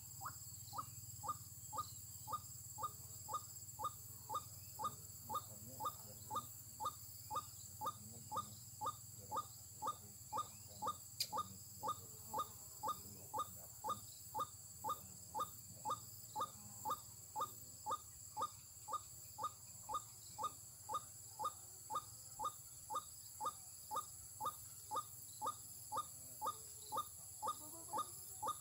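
White-breasted waterhen call played back from an mp3 as a trapping lure: one short note repeated very evenly, about twice a second, without a break.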